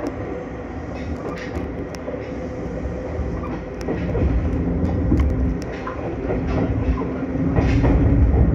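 Ohmi Railway electric train running along the track, heard from inside the car behind the cab: a steady rumble of wheels on rail with scattered clicks, and a hum that grows louder near the end.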